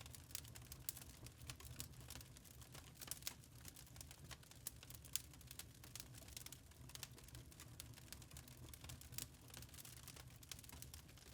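Faint wood fire crackling in a fireplace: irregular small pops and snaps over a low, steady rumble.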